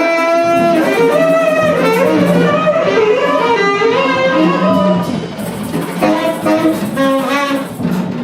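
Live band music with no words: a wavering lead melody played over a sustained low note.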